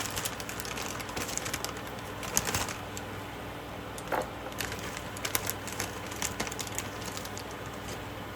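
Scattered light clicks, taps and small rustles of kitchen handling while dumplings are cooked, over a steady low hum.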